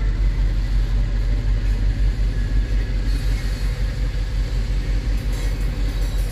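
Freight train of diesel locomotives and tank cars rolling through a road crossing, a steady low rumble heard from inside a car's cabin.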